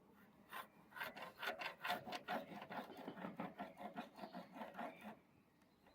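A hand rasp or file scraping along an oak bow limb in quick, regular strokes while the limb is tapered to thickness. The strokes stop about a second before the end.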